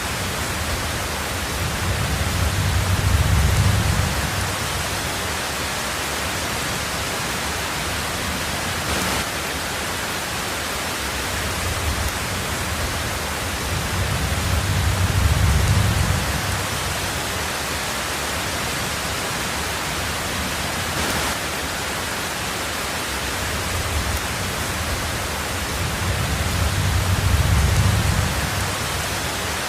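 Steady heavy rain hiss with a low thunder rumble that swells and fades three times, about every twelve seconds.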